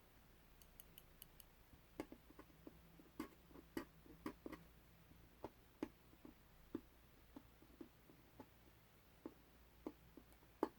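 Faint, irregular sticky clicks and pops of masking tape being picked at and peeled, about twenty scattered sharp ticks that start about two seconds in.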